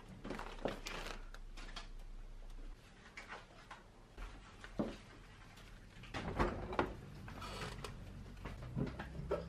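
Scattered light clicks and knocks of things being handled, with a louder cluster of knocks about six to seven seconds in.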